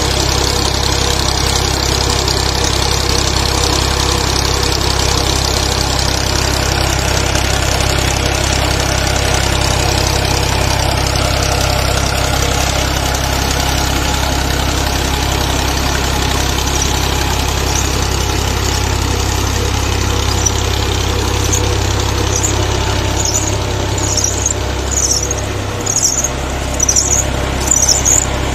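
Tractor engine running steadily under load, driving an old tubewell pump through its tyre. Its low note shifts a little near the end, and over the last several seconds a high squeak repeats about one and a half times a second, getting louder.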